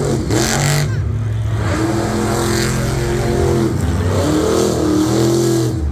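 Monster truck engine revving again and again, its pitch climbing and falling several times, with a short loud blast of noise just after the start.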